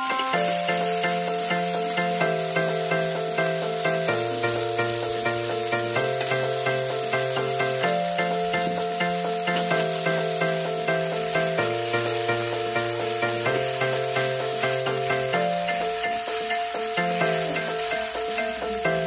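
Masala-coated okra sizzling as it fries in a flat iron pan, turned now and then with a metal spatula. Background instrumental music with chords changing about every two seconds plays over it.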